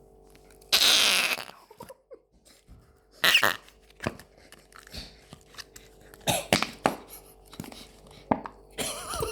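Fart-like noises of air squeezed out: a loud hissing blast about a second in, then a shorter one with a rising squeak a little after three seconds, followed by a few small clicks and knocks of handling.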